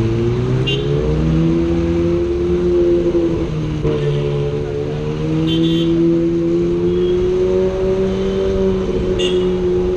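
A car engine accelerating, its pitch climbing steadily, with a brief drop just before the middle like a gear change before it climbs again.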